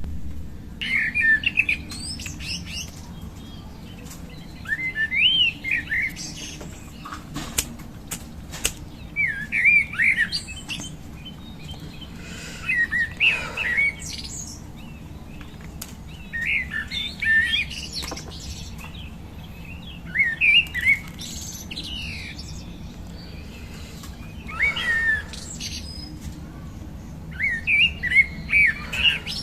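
A songbird singing short, chirpy warbled phrases about a second long, repeated every three to four seconds, over a steady low hum. A few sharp clicks come about eight seconds in.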